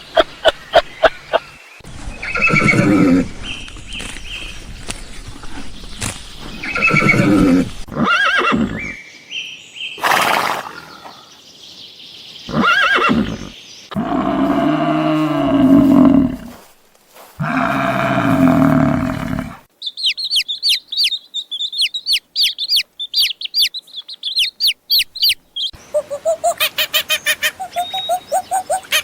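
Farm animal calls in succession, one call every few seconds and several different kinds, some deep and drawn out. In the last third comes rapid, high bird chirping.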